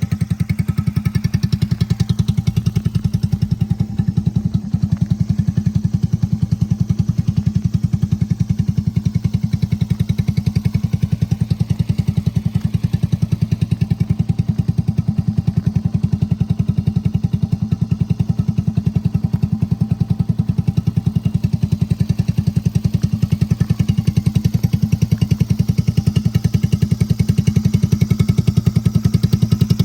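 Honda JorCub's single-cylinder four-stroke engine, bored up to 81cc with a Kitaco PC20 carburettor, running steadily at a constant speed through an aftermarket muffler, with an even, low exhaust pulse.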